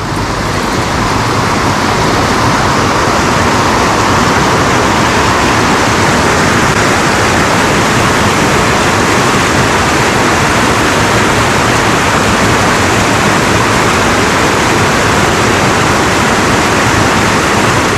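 Rushing water of a cascading mountain stream: a steady, even rush.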